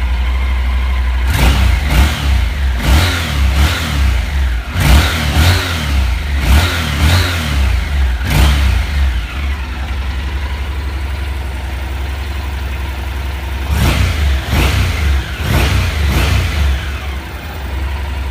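Honda NC700X parallel-twin engine and exhaust, revved in short, sharp throttle blips that fall back to a steady idle. There is a quick run of about nine blips, a few seconds of idle, then about four more blips before it settles to idle again.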